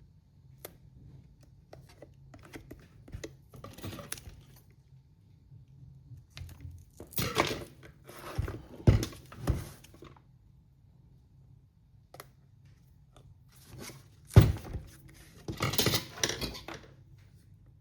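Parts and tools handled on a workbench: scattered light clicks and rustling, with two spells of louder clatter, one about halfway in and one near the end; the sharpest knock comes in the second spell.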